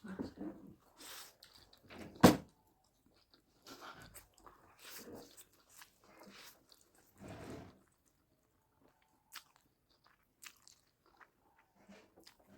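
A person chewing and biting food close to the microphone, in short irregular bursts. There is a single sharp clack about two seconds in, the loudest sound.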